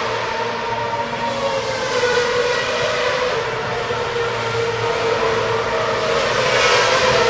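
Racing car engines running at high revs, several steady tones drifting slightly in pitch, swelling louder near the end as a car comes closer.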